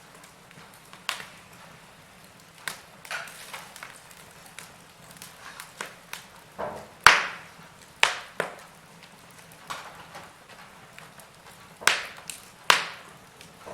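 Wood fire crackling: scattered sharp pops and snaps from burning logs at irregular intervals over a faint hiss, with the loudest cracks about seven seconds in and again near the end.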